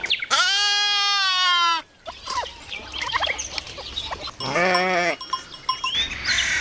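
Goat bleating: one long, loud, high bleat lasting over a second at the start, then a shorter, lower bleat about four and a half seconds in.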